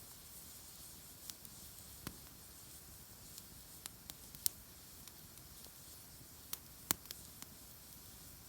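Wood campfire crackling: irregular sharp pops and snaps over a faint steady hiss, the loudest pops about halfway through and near the end.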